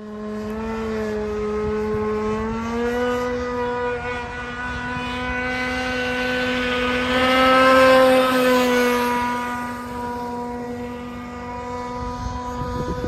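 Tiger King 26 open-port two-stroke engine of a Phantom 145 RC model boat running at steady high revs, a buzzing note that grows louder to a peak about eight seconds in as the boat passes close, then fades with its pitch dropping slightly.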